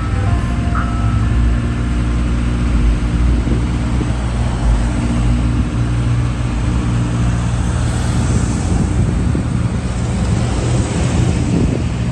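A motor vehicle's engine running steadily close by, a low hum with road noise. A few faint notes of a tune fade out in the first second.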